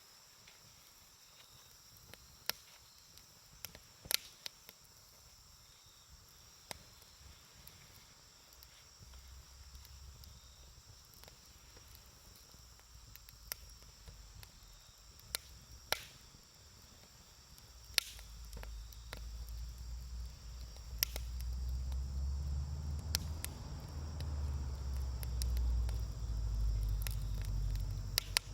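Wood campfire crackling, with sharp pops now and then over a steady high insect chorus. Past the midpoint a low rumble grows in and gets much louder.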